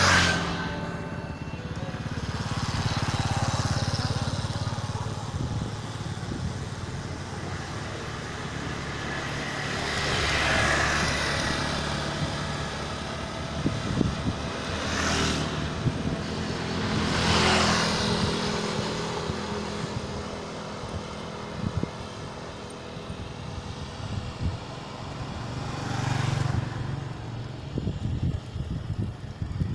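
Road noise during a bicycle ride, with motor vehicles passing by several times, each rising and fading away.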